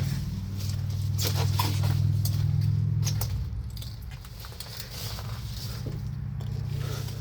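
A low, steady engine hum that drops noticeably in level after about three seconds, with scattered light clicks and crackles over it.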